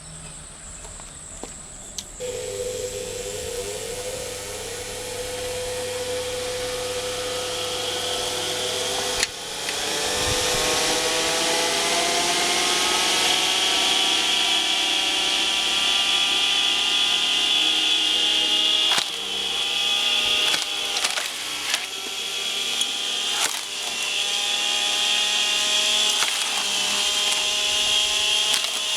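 Screw-cone log splitter driven by a 600 W washing-machine motor starts about two seconds in with a whine that rises in pitch, then runs steadily while the threaded cone bores into birch. The wood gives several sharp cracks as it splits.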